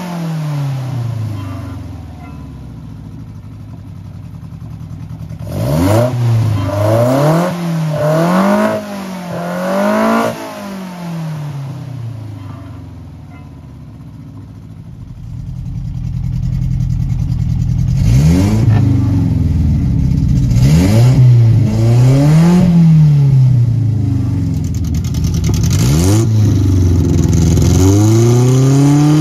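Nissan Sunny Truck B122's A12 1.2-litre four-cylinder OHV engine on twin Solex sidedraft carburettors, idling and blipped with the throttle. A quick run of revs rises and falls a few seconds in, the engine settles back to idle, then revs again repeatedly through the second half, climbing once more near the end.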